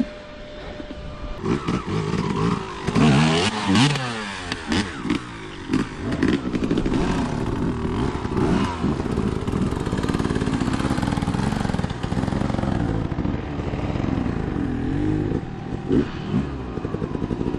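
Dirt bike engine revving up and down repeatedly under load, with a burst of knocks and clatter about three to five seconds in.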